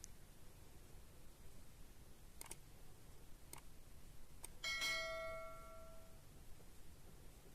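A few faint clicks, then one metallic ring about five seconds in that dies away over a second or so, like a small bell.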